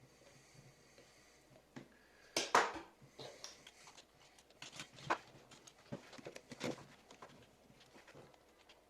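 Irregular clicks, taps and short scrapes of small plastic headphone parts and a tool being handled up close. The loudest is a scraping rustle about two and a half seconds in.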